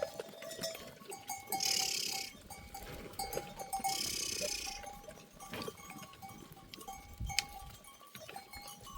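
A herd of goats and sheep on the move with their bells clinking, the bell tone coming and going. Two short noisy bursts come about two and four seconds in, and a sharp click near the end.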